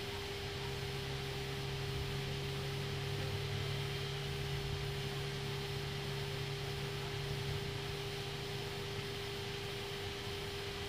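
Steady mechanical hum inside an Airbus A321neo cockpit, with engine number 2 running during pushback. A constant tone sits under it, and a low rumble comes in about half a second in and eases off near the end.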